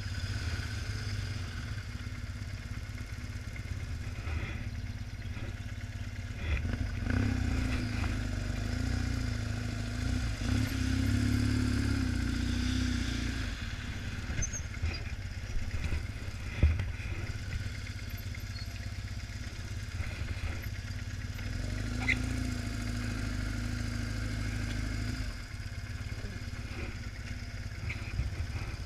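BMW R1150GS boxer-twin motorcycle engine running under way with road noise, pulling harder and louder twice, about a quarter of the way in and again about three quarters through. A single sharp knock about halfway through.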